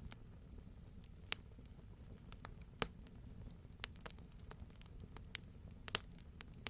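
Campfire burning, with sharp irregular pops and crackles of burning wood over a low steady rumble of the flames, including a quick cluster of pops about six seconds in.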